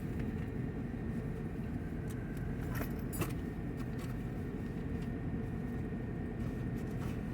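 Steady low hum inside a parked car with its engine running. Over it, a few light clicks and clinks of small items being handled, about two and three seconds in and again near the end.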